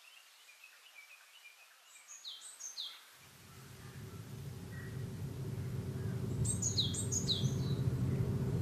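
Birds chirping, with two pairs of short high falling calls. From about three seconds in, a car's engine hum rises steadily in loudness as the car draws nearer.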